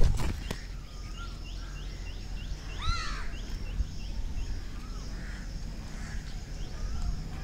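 Birds calling outdoors: a run of quick high chirps, about four a second, with one louder call about three seconds in, over a low steady rumble.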